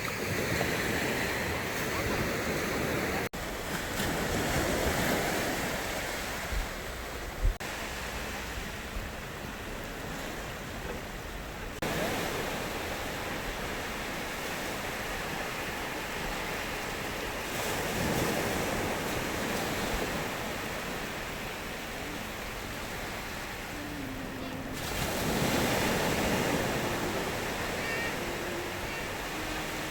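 Sea waves breaking and washing up on a beach, a steady rush that swells and ebbs every few seconds. The sound changes abruptly at a few points.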